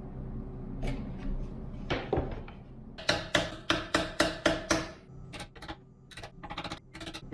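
A run of sharp knocks on wood, about three a second, from roughly three to five seconds in, followed by lighter irregular taps.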